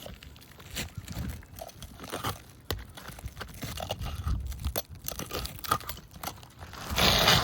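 Asphalt roof shingles being pried up and torn off: scattered crunches and knocks, with a louder scraping tear near the end.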